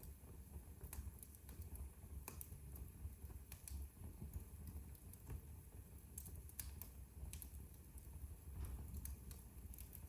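Wood fire crackling in a fireplace: faint, irregular sharp snaps and pops over a low steady rumble.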